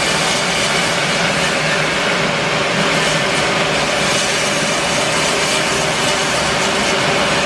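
Band sawmill running steadily: a loud, continuous, even noise with a steady hum through it.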